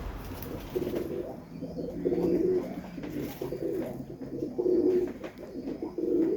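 Domestic pigeons cooing, a run of low coos one after another.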